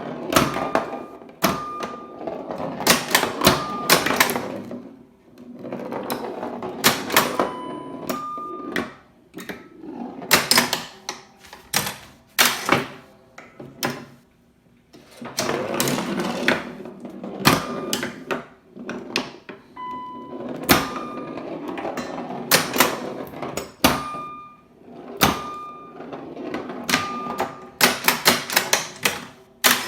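Sentinel Star Explorer home pinball machine in play: sharp clacks of pop bumpers, slingshots and flippers firing, with the ball rolling and rattling across the playfield between hits. Short electronic beeps sound again and again as it scores.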